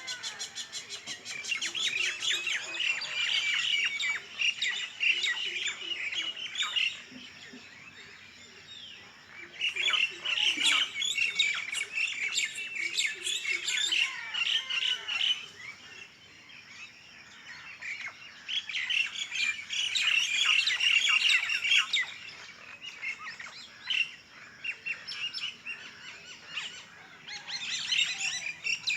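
Many small birds chirping and twittering together in dense spells of several seconds, with quieter gaps between the spells.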